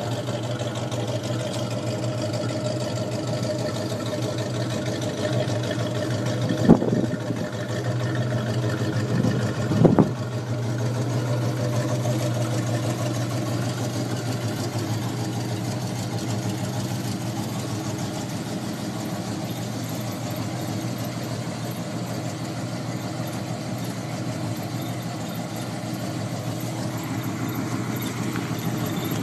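1971 Ford Mustang Mach 1's 429 Cobra Jet big-block V8 idling with a thick, deep note, blipped briefly twice, about seven and ten seconds in.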